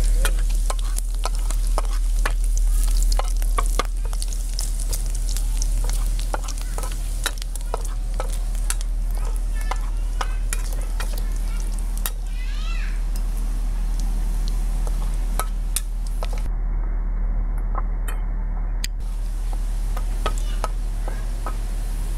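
Small pieces of food sizzling in hot oil in a two-handled metal wok, with a metal spatula stirring and scraping against the pan in many irregular clicks and taps. A steady low hum runs underneath.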